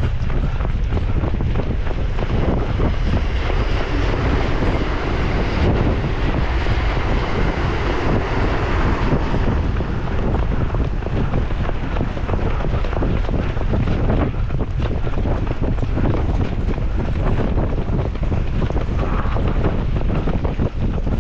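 Strong wind buffeting the microphone: a loud, steady rumbling roar with frequent short knocks throughout.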